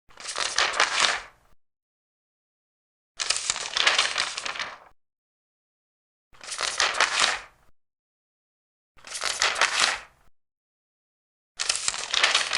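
Large paper pages being turned one at a time: five crisp rustling page turns, each about a second and a half long, about three seconds apart, with silence between them.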